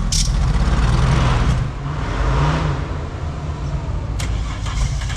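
Off-road 4WD's engine labouring under load, its revs rising and falling twice over a steady low rumble, with a rushing scrabble of tyres on dirt and a sharp click at the start.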